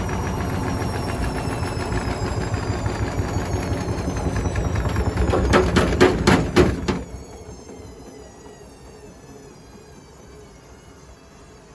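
Hotpoint WMFUG742 washing machine spinning down with bricks in the drum: the motor whine falls steadily in pitch, the bricks bang loudly against the drum several times about six seconds in as it slows, then the drum noise drops away suddenly and only a faint falling whine remains.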